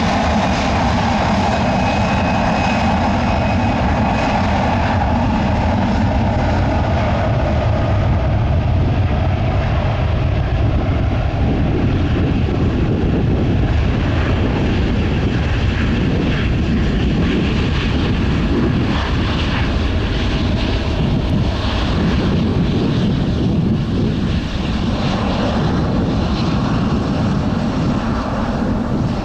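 Heavy jet airliner taking off, its engines at takeoff thrust: loud, steady jet engine noise with a deep rumble, and a faint high whine that fades out in the first few seconds.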